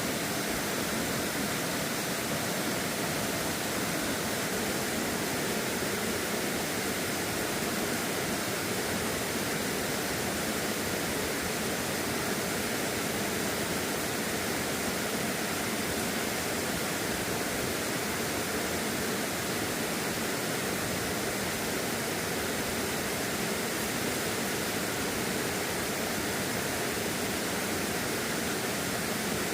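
Steady rushing of stream water, an even hiss with no breaks.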